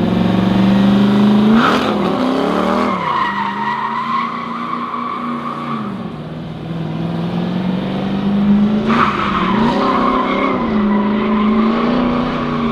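Drift truck's engine running hard, with a brief rise and fall in revs about two seconds in and again about nine seconds in; each is followed by a long, steady tire squeal as the truck slides, the second squeal still going at the end.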